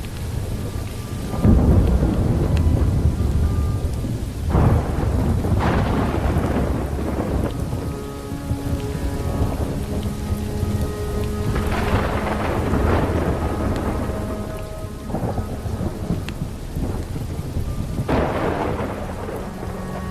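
Thunderstorm: steady heavy rain with several rolling claps of thunder, the loudest about a second and a half in, at about four and a half seconds, around twelve seconds and near the end. Faint, slowed, reverberant music holds long tones underneath.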